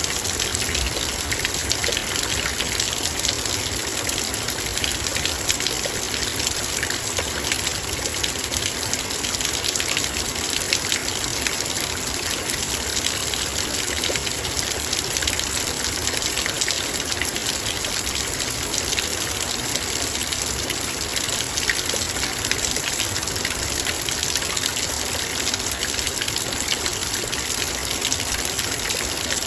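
Heavy rain falling steadily, raindrops hitting a metal bowl in a dense, even stream of small hits.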